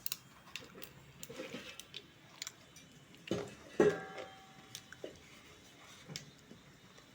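Scattered clinks and scrapes of metal cookware and utensils, with one louder clang a little under four seconds in that rings briefly.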